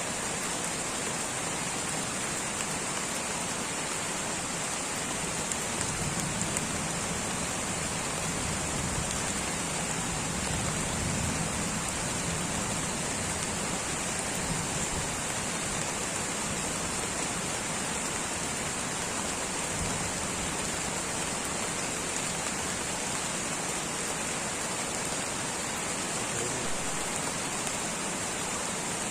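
Light rain falling steadily, an even hiss without breaks.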